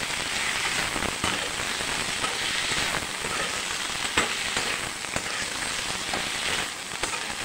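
Okra and onions sizzling in hot oil in a non-stick kadai as they are stirred with a spoon, with a few sharp clicks, the strongest about four seconds in. The okra is being sautéed to cook off its sliminess.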